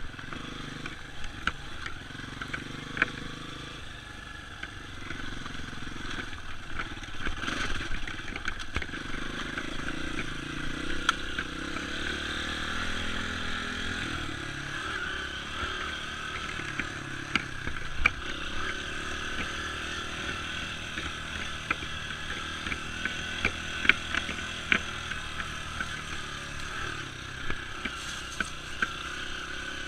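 Dirt bike engine running through a trail ride, its pitch shifting up and down, with frequent sharp clicks and knocks.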